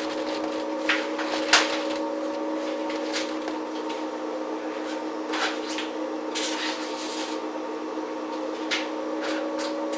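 Inside a JR 115 series electric multiple unit car (MoHa 114), a steady hum from the onboard electrical equipment holds one unchanging pitch. Scattered clicks and knocks come over it, the loudest about a second and a half in.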